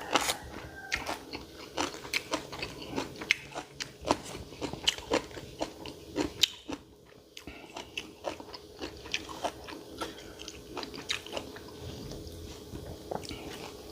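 Close-miked chewing and biting of som tam (green papaya salad) with red ant eggs. It comes as many sharp, irregular crunches, several a second, with short pauses between bites.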